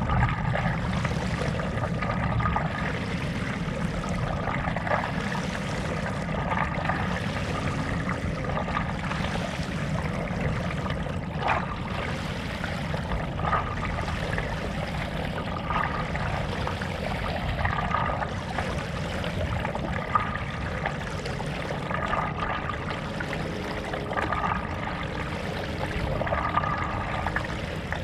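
Stand-up paddle strokes through lake water, a splash and trickle from the blade about every two seconds, over a steady low rumble.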